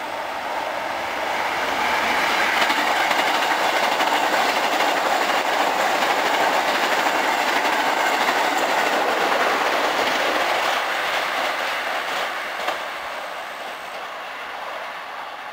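Hankyu 9300 series eight-car limited express train passing at speed without stopping: a steady wheel-on-rail rumble with clatter. It swells over the first couple of seconds, stays loud for about nine seconds, then fades as the train moves away.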